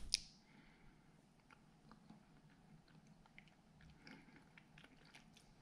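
Faint chewing of a soft canned-salmon vertebra: a short mouth click at the start, then quiet, irregular little clicks of the jaw. The bone, softened by canning, crumbles to a chalky paste instead of crunching.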